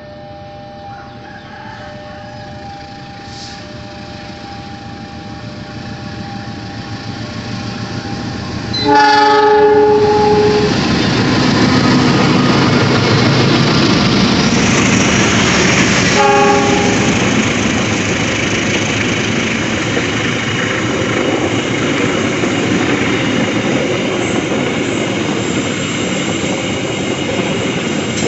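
A train approaching a level crossing, with the crossing's warning alarm holding two steady tones. About nine seconds in the train sounds a loud horn blast, then a shorter second blast about seven seconds later, and the noise of the passing train fills the rest, wheels clacking on the rails.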